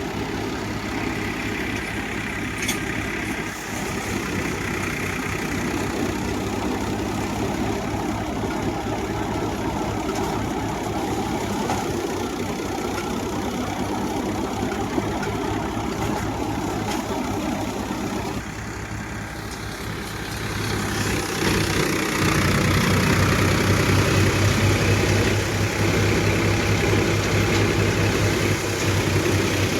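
Powertrac tractor engine running steadily while it drives a multi-crop paddy thresher, with a steady machine drone. About two-thirds of the way through it grows louder and holds there.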